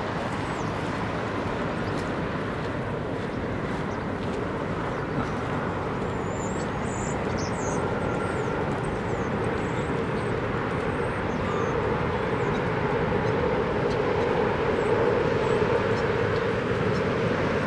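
Airplane passing: a steady engine rumble that grows louder over the second half, with a drone coming in.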